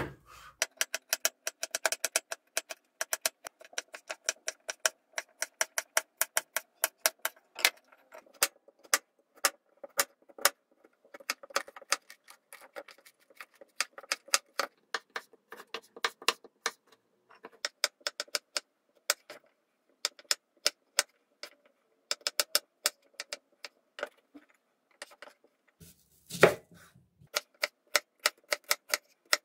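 Knife chopping vegetables on a cutting board in quick, regular strokes, about four a second with short pauses, and one heavier thump near the end.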